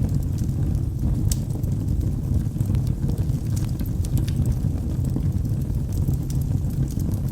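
Wood logs burning in a fireplace: a steady low rushing noise from the flames, with sharp crackles and pops scattered irregularly through it.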